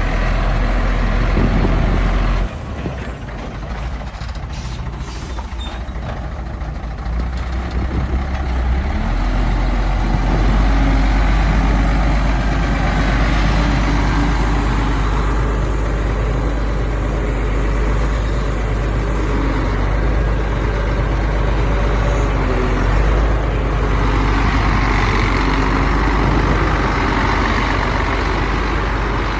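Heavy diesel earthmoving machinery running: a deep, continuous engine rumble. It drops off suddenly about two and a half seconds in, then builds back up over the next several seconds and holds steady.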